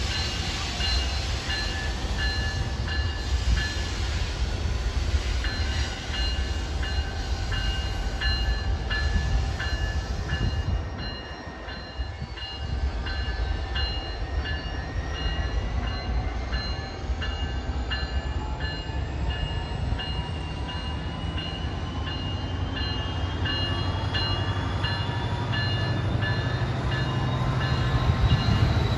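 A BNSF train running past with a steady low rumble. A ringing tone repeats evenly over it, and a rising whine climbs through the second half.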